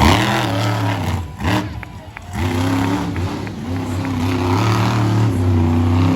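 Monster truck engine revving in quick blips and dropping off, then running at a steadier held throttle from about two and a half seconds in.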